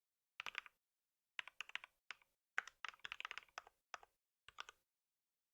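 Typing on a computer keyboard: short runs of quick key clicks in irregular bursts with brief pauses between them, the longest run about halfway through.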